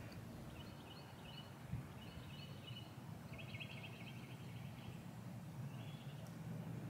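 Faint backyard birdsong: short trilled chirps repeating every second or so, one of them a quick rattling trill, over a faint low steady hum.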